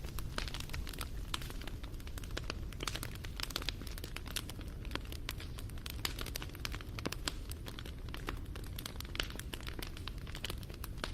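Wood fire crackling, with many irregular sharp pops and snaps over a low, steady rumble.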